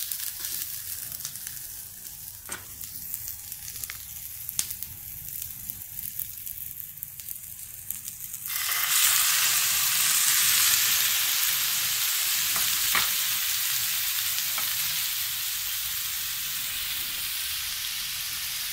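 Sliced onions frying in oil in a pan, a soft crackling sizzle with a few clicks of a spatula. About eight and a half seconds in, chopped tomatoes go into the hot pan and a loud, even sizzle takes over.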